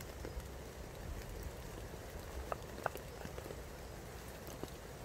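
Steady heavy rain pattering on a tarp overhead, with two sharp ticks a little past the middle.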